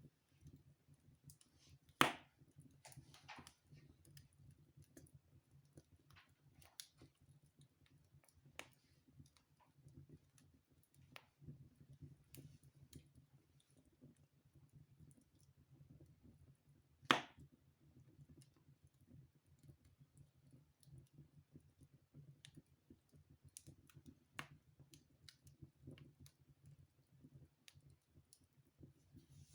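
Wood fire burning in a fireplace, crackling faintly with scattered small clicks, and two louder pops about two seconds in and again past the middle.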